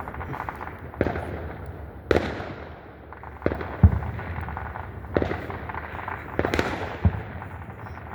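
Fireworks going off: a string of sharp bangs and crackles at irregular intervals of about a second, the loudest bang a little before the middle.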